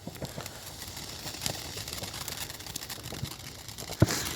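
Fireworks going off: a run of scattered crackles and pops, then one sharp bang about four seconds in.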